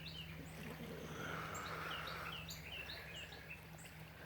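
Small birds chirping, a run of short, quickly falling notes repeated through the middle and later part, over a faint steady low hum.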